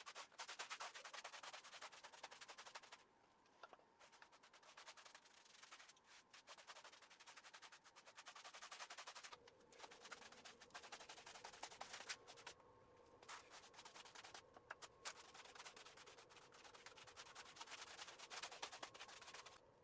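Faint, fast scratching of a large paintbrush's bristles over a rough masonry wall as primer is brushed on, in runs of strokes with short pauses. A faint steady hum comes in about halfway.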